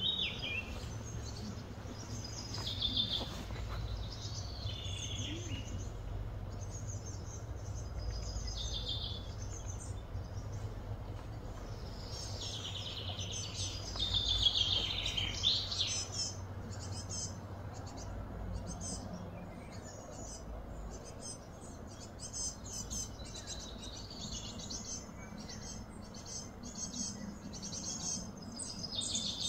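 Birds chirping and calling in short falling phrases, busiest a little before halfway, then in quick short chirps toward the end, over a steady low background rumble.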